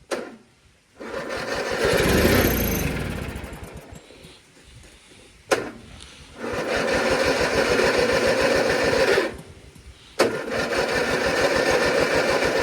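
Starter cranking the engine of a 1997 MTD Yard Machines riding lawn mower in three long tries, the last two each beginning with a sharp click, without the engine catching. The hard start comes from a fuel system that had run completely dry, with no gas yet in the lines, filter or carburetor.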